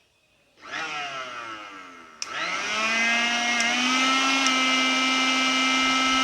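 Repaired mixer grinder's universal motor: a short run whose pitch falls as it slows, then a click about two seconds in and the motor starts again, running up to a steady whine. The bushings blamed for its earlier loud noise have been serviced, and it now runs smoothly.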